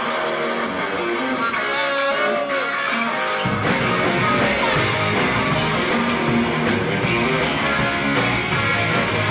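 Live rock band playing a song intro: guitar over a steady high ticking beat, then bass and drums come in about three and a half seconds in.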